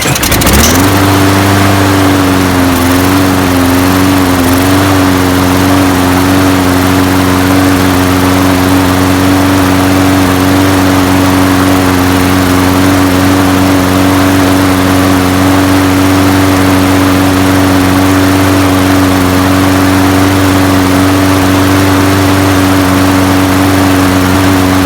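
Snapper SPX walk-behind mower's small single-cylinder engine catching about half a second in and running at one steady speed, a little uneven in the first few seconds, then shutting off near the end. It now runs with its clogged main jet cleaned out, though somewhat rough.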